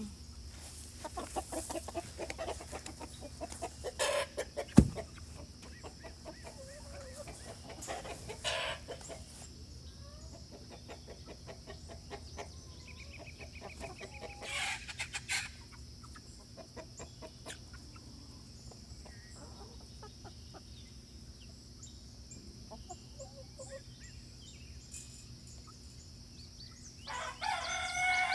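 Chickens clucking in scattered short calls, with one sharp knock about five seconds in. Near the end a rooster starts to crow.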